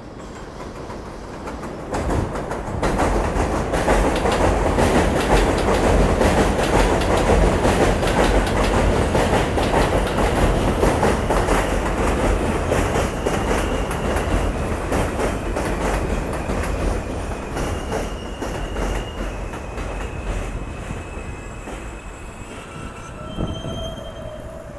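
New York subway train running through the station on steel rails, its rumble and wheel clatter swelling within a few seconds and then slowly easing off. Thin, high wheel squeals come in over the second half.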